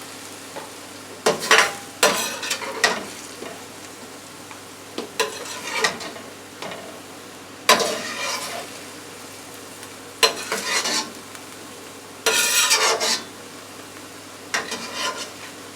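Chicken and vegetables sizzling in a frying pan, with about ten short bouts of a utensil scraping and clinking against the pan as the cooked chicken is lifted out.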